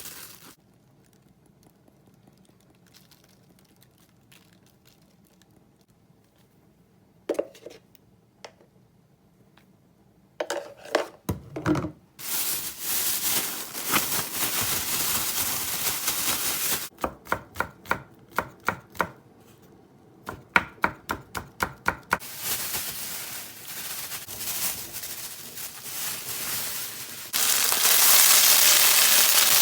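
Kitchen knife chopping on a cutting board in a quick run of about a dozen strokes, between stretches of steady hiss. Near the end a loud, dense sizzle of food frying in a pan starts.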